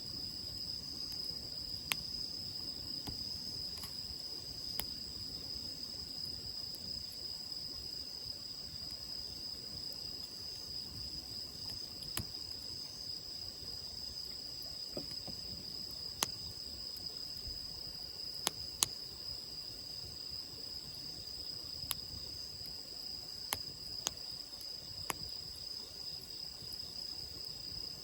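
Wood campfire crackling, with about a dozen sharp pops at irregular intervals, over a steady high chirring of crickets.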